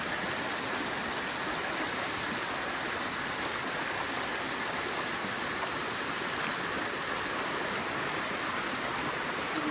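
Steady rushing of a nearby stream, an even wash of flowing water.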